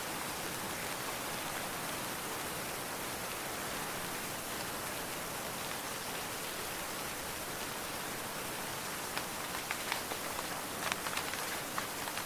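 Steady rain falling, an even hiss. From about nine seconds in, sharper individual taps of drops or drips stand out over it.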